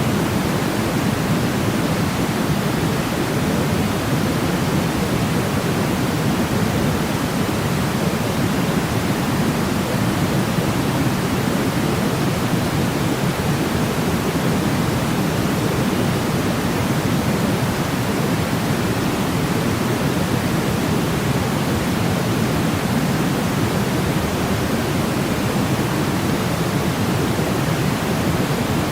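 Steady, unchanging sleep-machine noise, heavier and deeper in the low end than pure white noise, with no pitch, rhythm or breaks.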